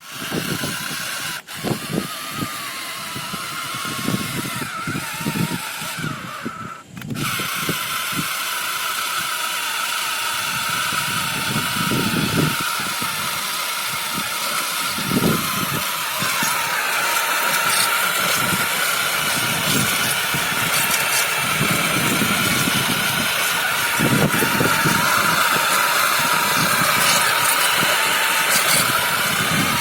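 Model John Deere tractor's re-geared gearbox and motor running under load with a weight attached, giving a steady whine over an irregular low rumble and knocks. The whine grows louder and a little higher about halfway through.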